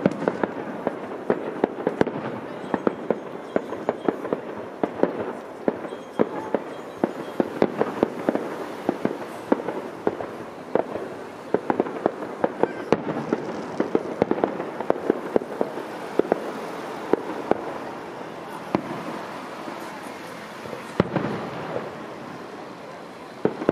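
Aerial fireworks going off in quick succession: sharp bangs mixed with crackling. They come thick and fast for most of the time, then thin out to a few scattered bangs near the end.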